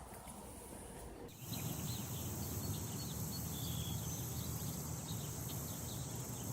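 Outdoor ambience: a steady high insect drone with short bird chirps over a low rumble, starting about a second in.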